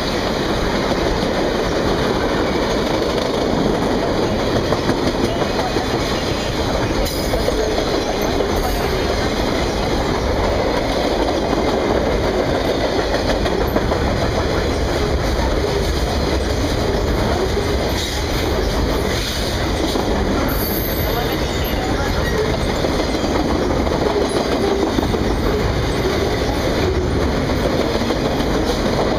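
Cars of the Ringling Bros. and Barnum & Bailey circus train rolling past steadily, their wheels clacking over the rail joints.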